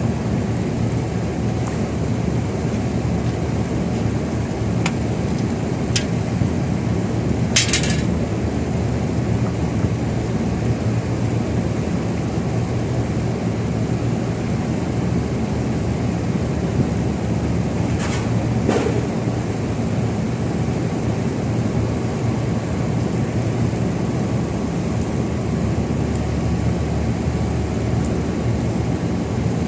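Reaper's engine running steadily at a constant speed, with its exhaust fitted with ducting. A few short sharp clicks stand out, around 8 seconds in and again near 18 seconds.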